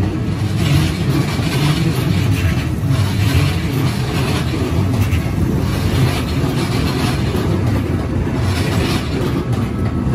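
Keikyu 600 series electric train passing close by: a loud, steady rumble of wheels on the rails, with irregular clacks every second or so.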